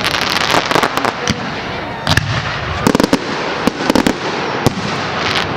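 Aerial fireworks going off at a public display: irregular sharp bangs, several close together about three seconds in, over a continuous crackling wash.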